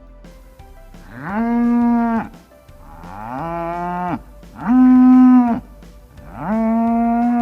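Cow mooing four times, each call about a second long, rising at the start, held steady, then dropping away, with short pauses between calls.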